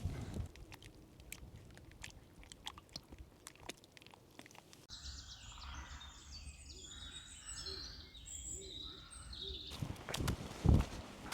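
Scattered light crunching and clicking for the first few seconds, then an abrupt change to several small birds chirping in short repeated notes over a low hum, then soft thuds near the end.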